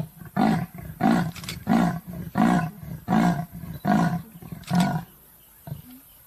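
A large animal giving a series of about eight deep, evenly spaced calls, roughly one and a half a second, which stop about five seconds in.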